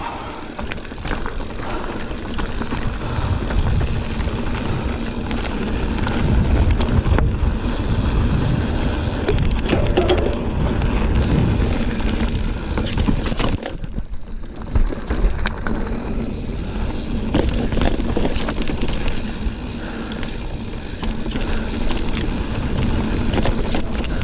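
Giant Fathom 29 2 mountain bike ridden along a dirt trail: a constant rumble of tyres over the ground with many rattling clicks and knocks from the bike, easing off briefly about 14 seconds in.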